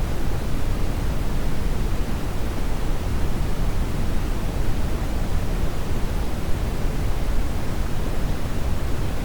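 Brown noise: a steady, even hiss and rumble, strongest in the low end, with no change.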